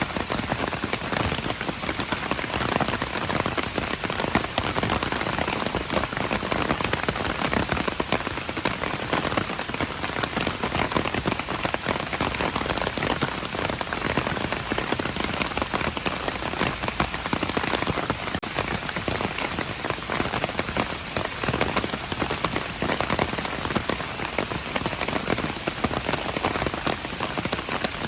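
Steady, heavy rain: a dense patter of countless raindrops hitting surfaces, with no let-up.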